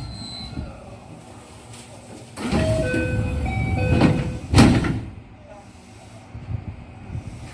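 207 series commuter train's sliding passenger doors operating at a station stop: a rushing slide with short electronic chime tones, ending in a loud bang about four and a half seconds in as the doors reach their stops.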